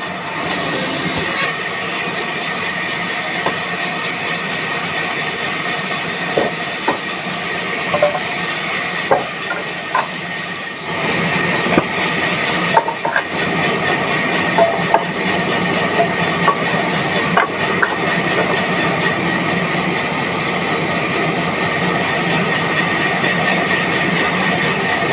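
Band sawmill running steadily, with scattered clicks and knocks over the machine noise.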